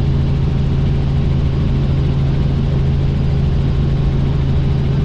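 Helicopter in flight: a loud, steady low hum from the engine and rotors, unchanging throughout.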